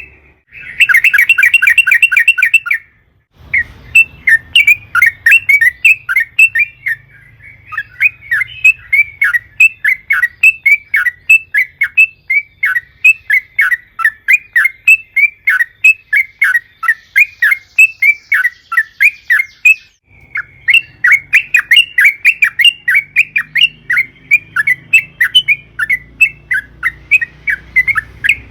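Yellow-vented bulbul (trucukan) singing in long, fast chattering runs of short repeated notes, almost without pause. A very rapid trill opens it, with brief breaks about three seconds in and again near twenty seconds.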